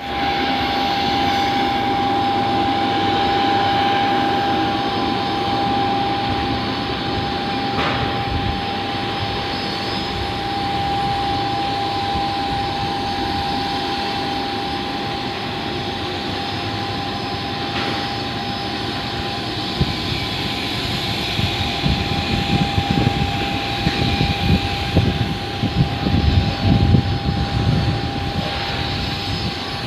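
Cambodian Air Force aircraft's engines running, with a steady high whine over a broad roar; the low rumble grows louder and more uneven over the last ten seconds.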